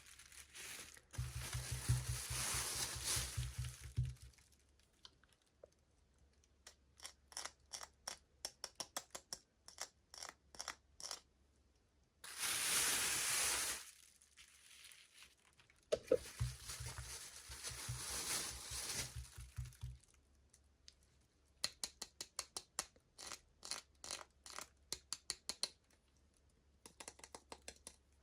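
Packaging of a miniature toy being torn open and crinkled in three noisy bursts, with runs of quick small clicks and taps in between.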